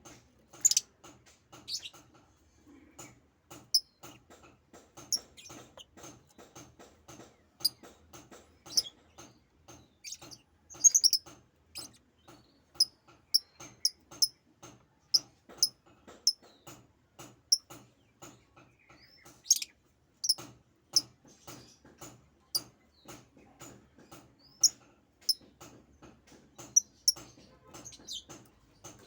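Pet bird giving short, high chirps at irregular intervals over a steady run of soft clicks and taps.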